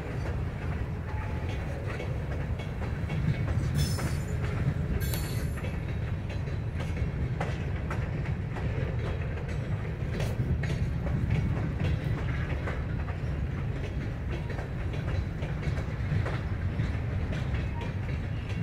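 Covered hopper cars of a freight train rolling past: a steady low rumble with wheels clicking over rail joints, and two brief high-pitched wheel squeals about four and five seconds in.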